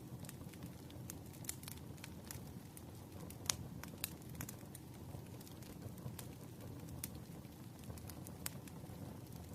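Ambient recording of a wood fire crackling, with irregular sharp pops, one louder snap about three and a half seconds in, over a steady low rush of rain.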